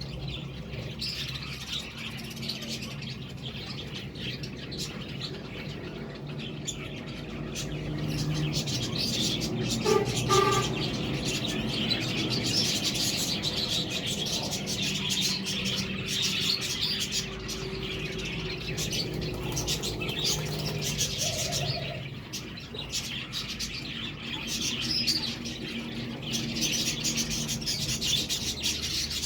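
Budgerigars chattering and chirping continuously, many quick warbling notes overlapping, louder about ten seconds in. A steady low hum lies underneath.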